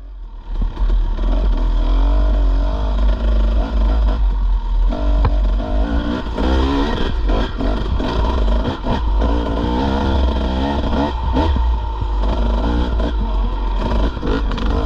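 Dirt bike engine running and revving up and down as the bike is ridden over rough trail, with clattering knocks from the bike over the ground.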